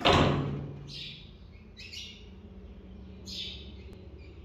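A single loud thump at the start that rings off briefly, then three short high-pitched bird chirps over the next few seconds, over a low steady hum.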